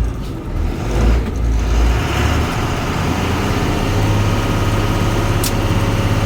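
Ashok Leyland bus's Euro 4 diesel engine starting: uneven low pulsing for about the first two seconds, then settling into a steady run.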